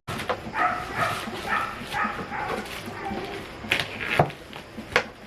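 A dog yipping repeatedly in short, high calls, with a few sharp clicks in the second half.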